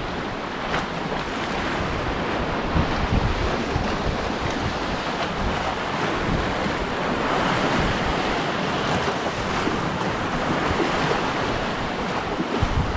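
Sea waves and surf washing steadily, with wind buffeting the microphone in irregular low gusts.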